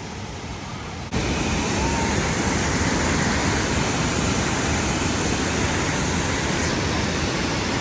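Steady rush of a waterfall's falling water, jumping suddenly much louder about a second in.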